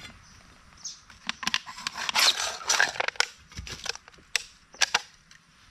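Irregular sharp knocks and cracks, bunched into a dense crackling stretch about two to three seconds in, then a few single sharp cracks.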